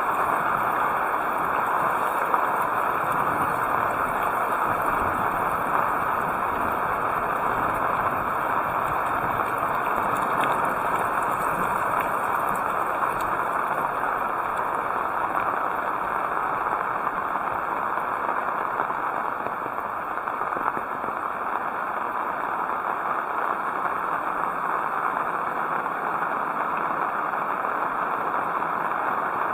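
Heavy rain falling steadily: an even, constant hiss of rain.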